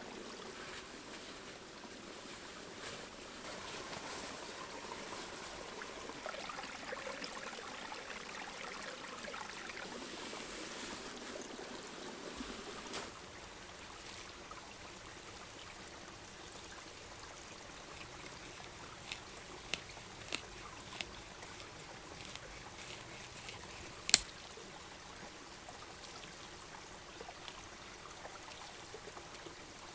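A small forest brook babbling and trickling steadily, a little louder for the first dozen seconds. A few light clicks come about 20 seconds in, then one sharper click a few seconds later.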